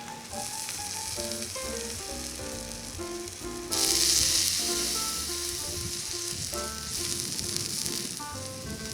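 Takoyaki cooking in a cast-iron takoyaki plate over a wood fire, sizzling steadily. The sizzle jumps suddenly louder about four seconds in, then slowly eases. Light background music plays under it.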